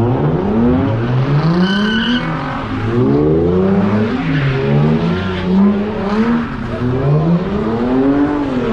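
Car engine revving hard, its pitch climbing and dropping over and over as the car is driven aggressively, with a brief high tyre squeal about two seconds in.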